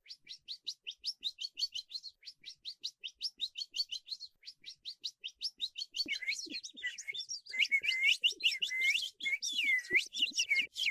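Birds singing: a fast run of short high chirps, then from about six seconds in a series of swooping notes that dip down and rise again.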